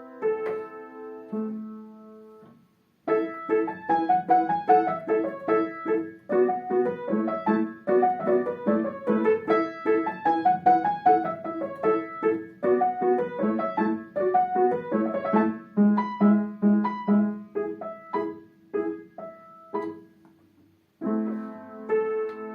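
Solo piano playing a lively run of short, quick notes. The playing breaks off briefly about two seconds in and again near the end, then starts again each time.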